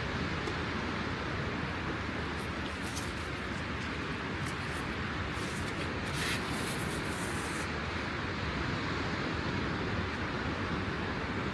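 Steady rushing outdoor noise of rain and wind by the sea, with a scatter of short, light ticks between about two and eight seconds in.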